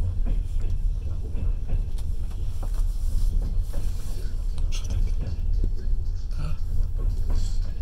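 Passenger train running along the track, heard from on board: a steady low rumble with scattered clicks and knocks from the wheels and carriage.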